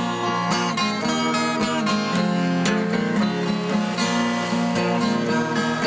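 Acoustic guitar strumming chords, an instrumental passage with a steady rhythm and no singing.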